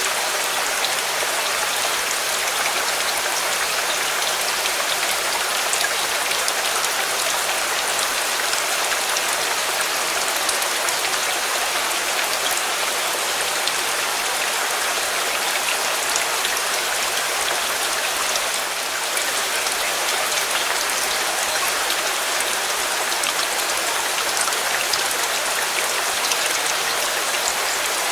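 Steady rain falling: an even, unbroken hiss with scattered sharp drop ticks.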